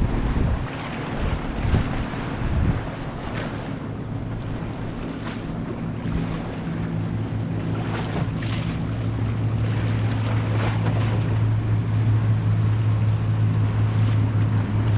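Wind buffeting the microphone over a wash of waves, with a boat engine's steady low hum that grows louder through the second half.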